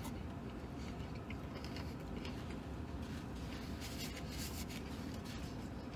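Quiet chewing of a sandwich and the rustle of its paper wrapper, with a few faint clicks, over a steady low hum in a vehicle cabin.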